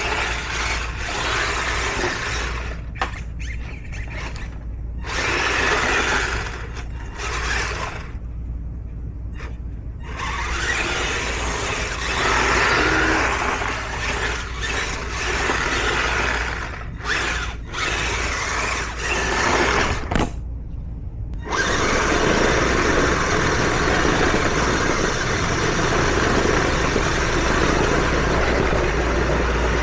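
Electric motors of a tracked RC tractor whining in short bursts with abrupt stops, like a power tool. About two-thirds of the way through this gives way to a steady, unbroken running sound.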